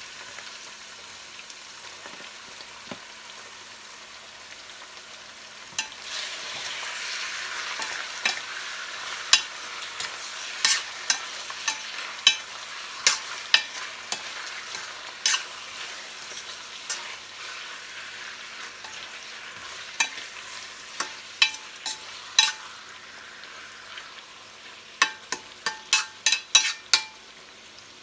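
Chicken frying in hot oil in a pan with garlic, onion, potato and carrots. The sizzling grows louder about six seconds in as the chicken goes into the oil, with sharp clicks of a utensil knocking against the pan while stirring and a quick run of clicks near the end.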